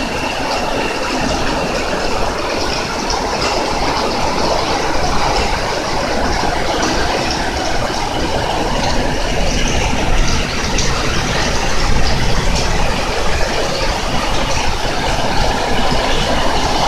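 Heavy rain pouring down in a strong wind: a steady, dense hiss with a gusting low rumble of wind on the microphone.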